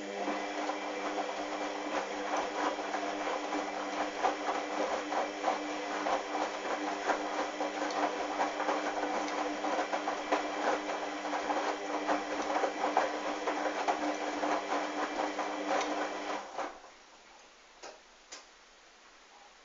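Hoover washing machine turning its drum during a sudsy towel wash: the drum motor hums steadily under the crackling churn of wet towels and water. The drum stops about sixteen seconds in, followed by two faint clicks.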